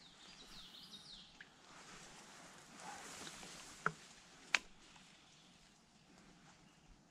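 Faint creekside ambience with a small bird singing a short run of quick chirps near the start, then two sharp clicks less than a second apart about four seconds in.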